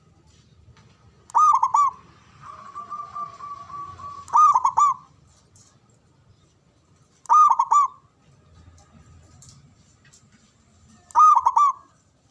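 Zebra dove (perkutut) singing: four phrases about three seconds apart, each a quick cluster of three ringing coo notes, with a quieter even trill between the first two.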